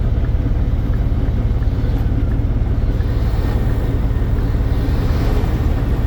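Scania P230 truck's five-cylinder diesel engine idling steadily, with a light hiss over the low engine note.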